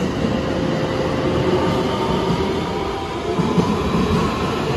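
JR West electric commuter train pulling out past the platform: a steady rumble of wheels on rail with a faint motor whine over it as the cars go by.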